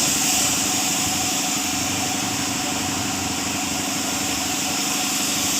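Car engine idling steadily, with an even rhythmic pulse and a steady hiss over it, while its ignition timing is being adjusted.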